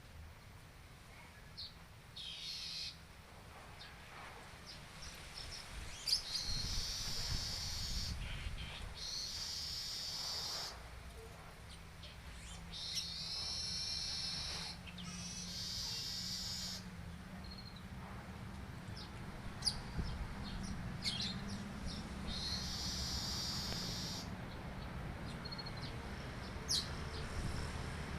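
Yellow-headed weaver (manyar) singing a series of high, rapid twittering phrases, each a second or two long with short pauses between. The bird has been trained to sing canary-style song.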